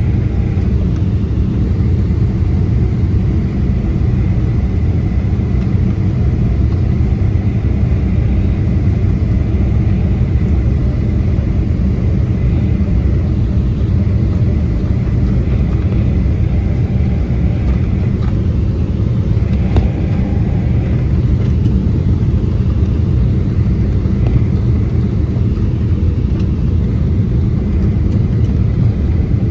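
Steady low rumble of an airliner's engines and airflow heard from inside the passenger cabin during the landing.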